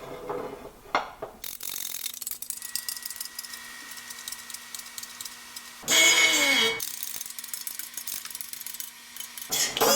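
Ratchet wrench clicking rapidly while a fastener is turned. A louder, short whirring burst from a power tool comes about six seconds in and again near the end.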